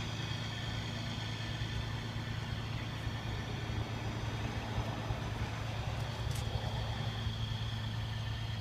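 Engine idling steadily: a constant low hum with a faint steady high whine above it.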